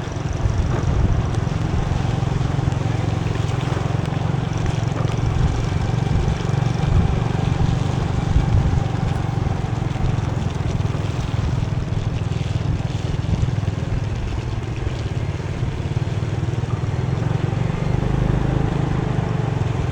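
Motorbike being ridden on a wet road in the rain: a steady low engine hum under a continuous hiss of tyres, rain and wind, with no sudden events.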